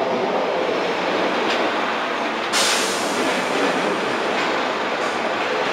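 Northern Class 144 Pacer diesel railbus running along the platform, a steady rumble of wheels and engine with faint knocks from the rails. A sudden hiss comes in about two and a half seconds in and fades away.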